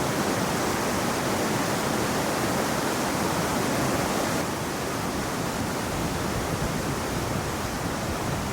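Rushing river water, a dense steady noise with no breaks; it drops a little in level about halfway through.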